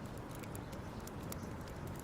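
Wood fire crackling: a steady low rumble of burning with frequent small, sharp pops and snaps.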